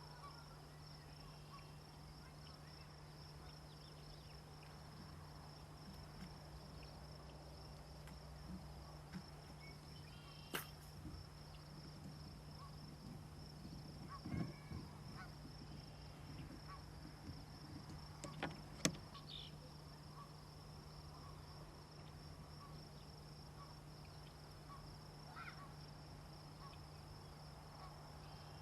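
Faint, steady high-pitched trilling of insects in the background over a low steady hum, broken by two sharp clicks, one about ten seconds in and one near nineteen seconds.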